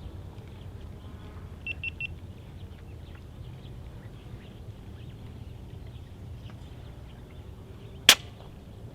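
A single sharp crack from a silenced Daystate Red Wolf Safari .22 PCP air rifle firing a slug, about eight seconds in, over a steady low rumble of wind and faint bird chirps. Three short high pips come about two seconds in.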